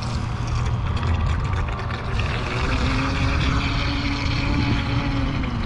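Pro Boat Blackjack 42 RC catamaran's brushless motor running as it speeds across the water: a steady high whine from about two seconds in, over steady low rumbling noise.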